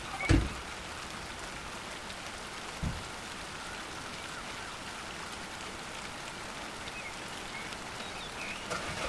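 Steady rain falling, with a sharp knock just after the start and a softer one about three seconds in.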